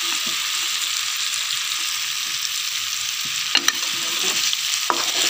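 Boiled amla (Indian gooseberries) frying with red chilli, turmeric and salt in a pan, a steady sizzle as the mixture is stirred. There are a couple of sharp clicks in the second half.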